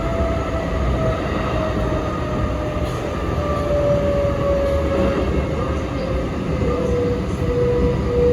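Sanyo Electric Railway 3050 series commuter train heard from inside the car while running: a steady rumble of wheels on rail with a motor whine falling slowly in pitch as the train slows.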